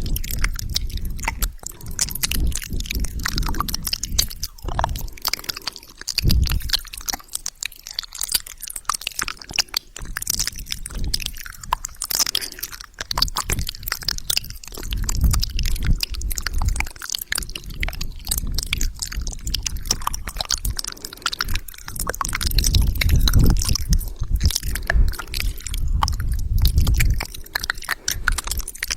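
Wet ASMR mouth sounds made right at the microphone: a dense, continuous run of small wet clicks, smacks and saliva sounds, with spells of low rumble against the mic.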